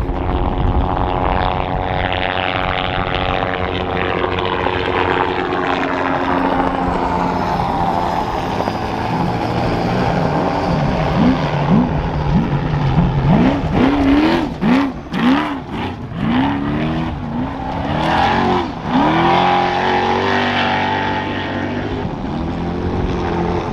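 Off-road race truck engine running hard as it passes, its pitch slowly falling, then revving up and down again and again, about once a second, as the throttle is worked.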